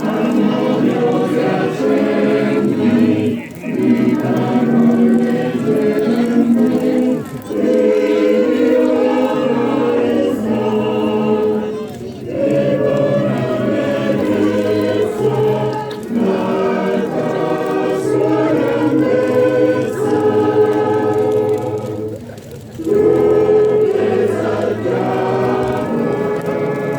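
Choir singing a hymn in long sustained phrases, with brief breaths between phrases every few seconds.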